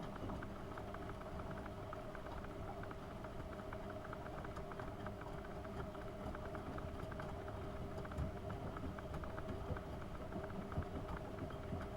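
AEG Öko-Lavamat 72520 front-loading washing machine running a hot wash: a steady motor hum with many small patters from the water and laundry in the turning drum.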